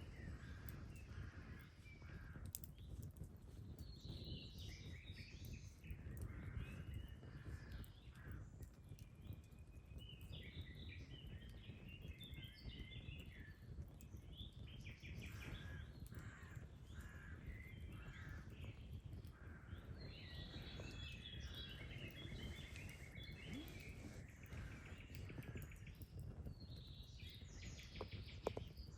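Birds singing and chirping in short repeated phrases and trills, over a steady low outdoor rumble.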